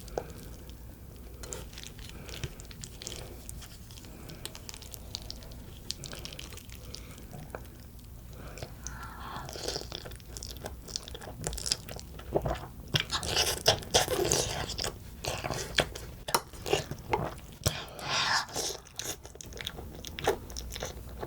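Close-up eating sounds of Pororo black bean noodles (jjajangmyeon) being chewed and bitten, soft and sparse at first, then louder and denser from about halfway, with repeated noisy mouthfuls and sharp clicks.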